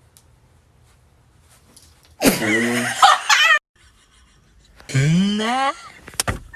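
Two loud non-speech vocal sounds from a person after about two seconds of quiet, the second rising in pitch, then a few sharp clicks near the end.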